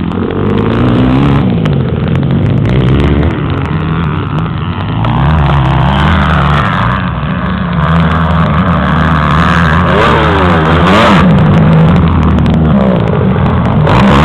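Off-road motorcycle engines revving up and down on a motocross track, with repeated rises and falls in pitch as the bikes accelerate and back off around the jumps.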